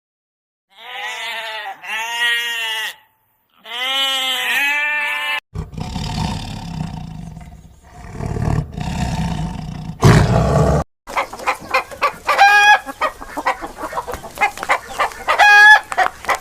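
A run of different animal calls: four high, arching cries in two pairs, then a low, rough roar for about five seconds, then rapid clucking with two pitched crows near the end.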